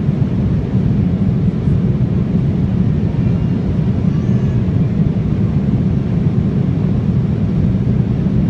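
Steady drone of an Embraer 175's twin GE CF34-8E turbofan engines and rushing air, a deep even rumble that holds constant.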